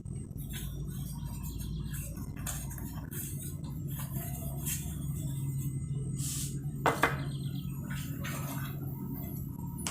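Light clicks and knocks of food containers and dishes being handled and set down while a refrigerator is emptied and organised, with a louder double knock about seven seconds in, over a steady low hum.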